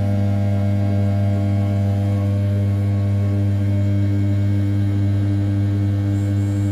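Desktop CNC mill's 500 W brushless spindle turning at 6000 rpm while an end mill roughs the outer profile of a 7075 aluminium block: a steady, unbroken hum with a strong low tone and a row of overtones above it.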